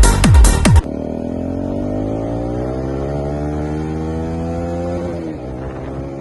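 A techno beat cuts off abruptly under a second in and gives way to a Bajaj Dominar 250 motorcycle's single-cylinder engine running under way, its pitch climbing slowly for about four seconds as it gathers speed, then falling back near the end.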